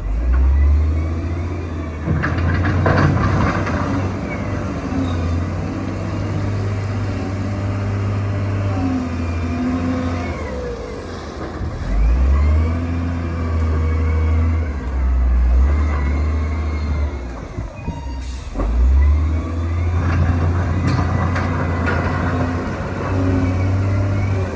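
Heavy diesel earthmoving machine working: a loud low engine rumble that rises and falls with load and revs, with whining tones gliding up and down over it.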